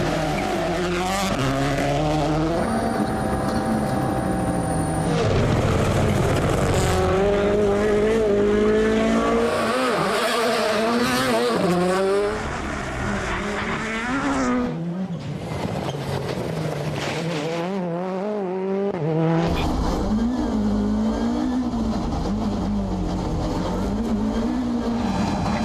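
Rally cars' engines at full throttle, pitch climbing and dropping back again and again through gear changes, across several quick shots of different cars.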